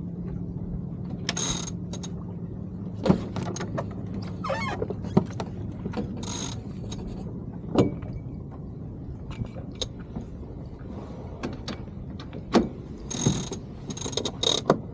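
Sailing yacht deck gear being worked: a winch ratcheting in several short spells, with scattered knocks and clunks of fittings over a steady low hum.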